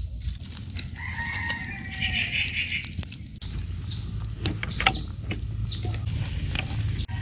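A rooster crowing once, a long call about a second in, followed by a series of short, sharp calls and clicks.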